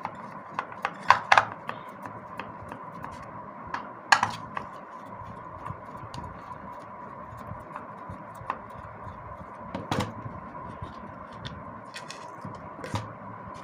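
Scattered light clicks and knocks of small plastic and metal vacuum-cleaner motor parts being handled during dismantling and cleaning. A few louder knocks come about a second in, at about four seconds and at about ten seconds, over a faint steady high hum.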